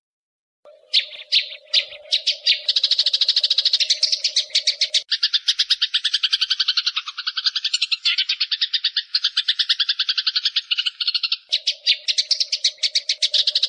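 Eurasian tree sparrows chattering in fast, dense trains of sharp chirps, the agitated calls of sparrows fighting. The calls start abruptly about half a second in, and a steady low hum runs under them at the start and again near the end.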